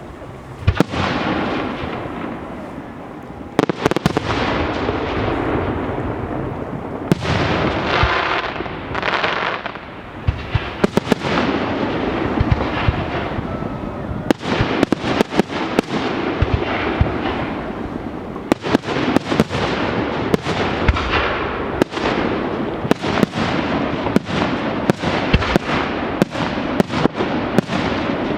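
Fireworks display: a string of sharp bangs from bursting shells over a continuous rush of noise, the bangs coming thicker and faster from about halfway through.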